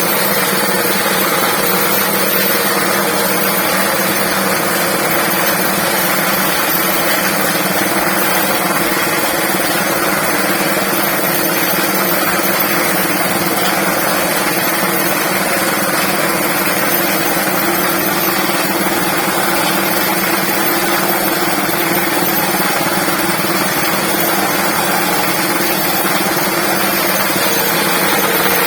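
Three-arm induction furnace lining vibrator running, a loud, steady mechanical drone with a hissing rattle that holds level throughout.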